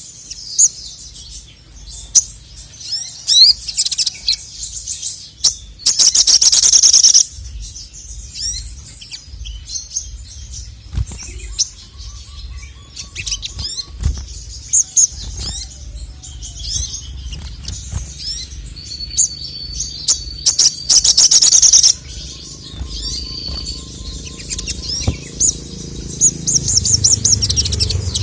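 Male little spiderhunter (sogok ontong, sogon) singing a stream of quick high chirps, with two long, loud rapid trills, one about six seconds in and one about twenty seconds in.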